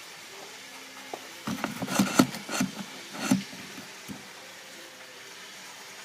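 A quick run of knocks and clattering, loudest about two seconds in, over a steady low whir.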